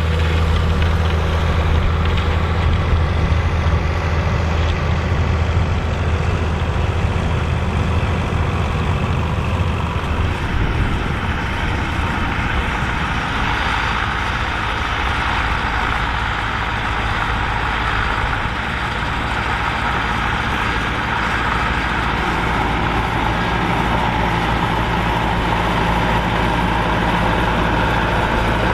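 Massey Ferguson 2680 tractor's diesel engine running steadily under load while pulling a cultivator through a field. Its steady low note gives way to a rougher, more spread-out sound about ten seconds in, and the low note comes back in the last few seconds.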